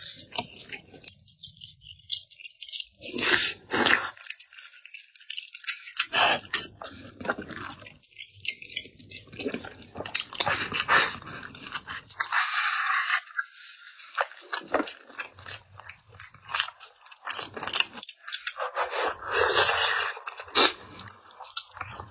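Close-miked eating: a person chewing mouthfuls of food, in irregular bursts of wet clicks and crunches with short pauses between them.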